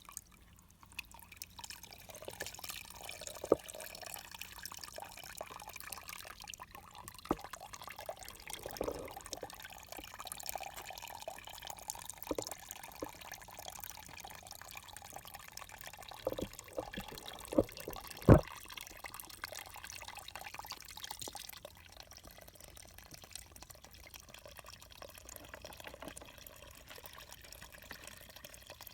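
Water dripping and trickling over a steady hiss, with scattered small clicks and a sharp knock past the middle.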